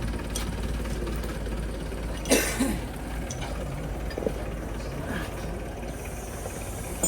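Truck diesel engine idling steadily. A brief voice sound cuts in about two seconds in.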